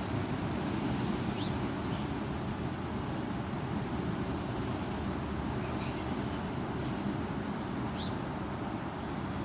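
Strong wind buffeting the microphone as a steady low rumble. A few short, faint bird chirps come through at intervals.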